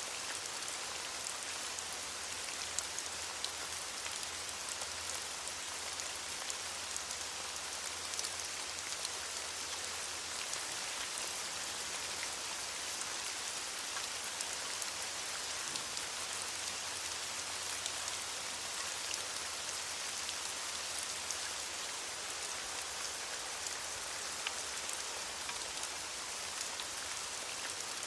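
Steady rain falling on leaves, an even hiss with many small drop patters scattered through it.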